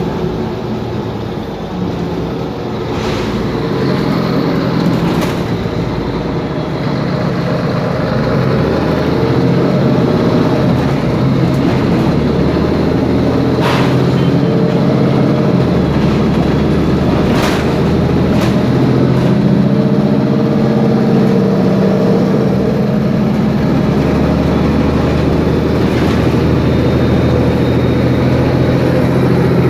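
Mercedes-Benz Conecto G bus's OM457LA six-cylinder turbo diesel running under way, growing louder over the first several seconds and then holding steady. A few sharp knocks from rattling parts of the bus come through over it.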